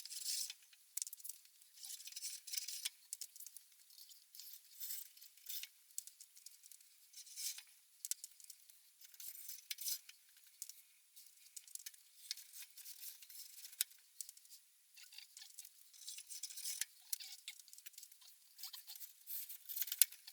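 Faint, thin-sounding scrapes and clicks coming irregularly, every second or so, from bricks being handled and fitted dry onto metal uprights.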